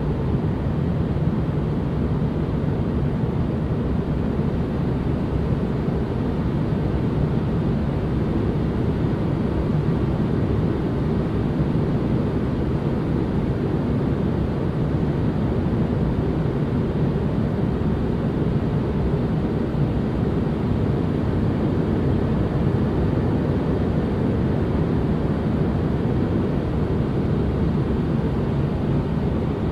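Steady, unchanging noise-machine sound, a deep even rush with most of its weight in the low end and little hiss up top.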